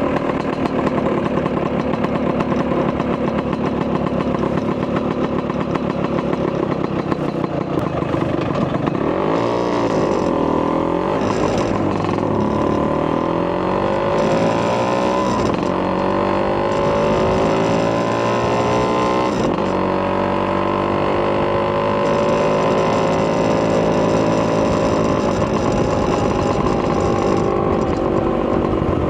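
Vespa PX200's single-cylinder two-stroke engine, fitted with a Polini 210cc kit and a Malossi expansion-chamber exhaust, running at steady revs. About nine seconds in, the revs start rising and falling repeatedly as it accelerates, with one long climb in pitch before it settles.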